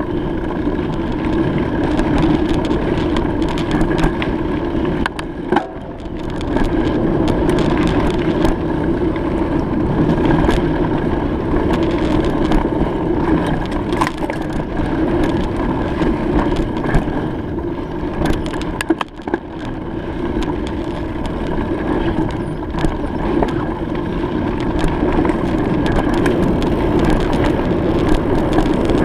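Riding noise of a bicycle in motion: a steady rush of tyre and wind noise with frequent small rattles and knocks, easing off briefly twice.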